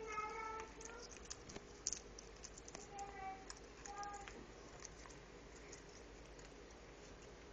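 African grey parrot working a peanut out of a chew toy: scattered small clicks and crunches of its beak on the toy. A few short, soft pitched notes come near the start and again about three and four seconds in.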